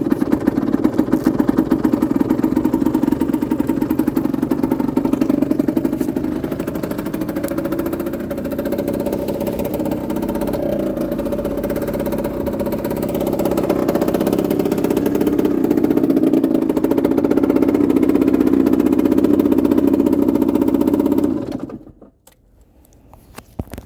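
Aprilia RS125's single-cylinder two-stroke engine running at low revs, its level rising and falling a little, then stopping abruptly about 21 seconds in.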